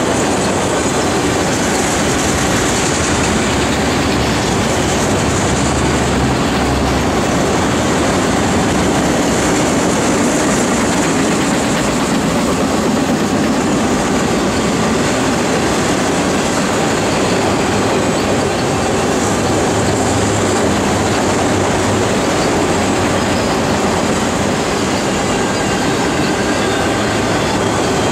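Autorack freight cars rolling past at steady speed: the loud, even noise of steel wheels running over the rails, with clickety-clack from the rail joints.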